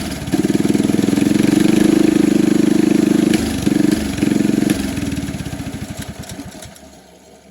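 Mini bike's small single-cylinder four-stroke engine running, with a couple of brief stumbles. About five seconds in it is shut off, and the firing slows and dies away.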